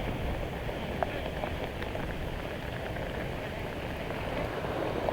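Steady rain falling, an even hiss with a few light scattered ticks of drops.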